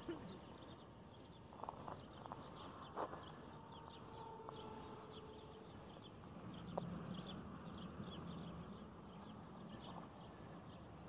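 Faint open-air ambience with scattered small bird chirps and a few short calls.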